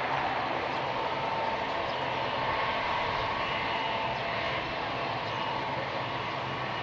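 Jet engines of a Boeing 777-300 running steadily: a continuous rushing noise with faint whining tones, easing slightly toward the end.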